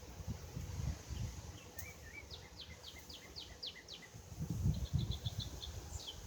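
A songbird singing: a run of about seven quick down-slurred whistled notes starting about two seconds in, then a fast trill of short notes and a few more slurs near the end. Wind rumble on the microphone underneath, strongest near the middle.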